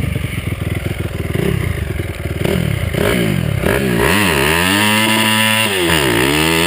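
Honda CRF250R's single-cylinder four-stroke engine revved hard in a burnout attempt: several quick blips of the throttle, then held at high revs for about a second and a half, a brief drop and a rise again near the end.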